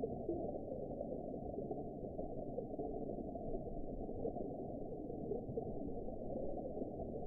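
Underwater sea ambience: a steady, muffled low rumble and wash with nothing above about 1 kHz.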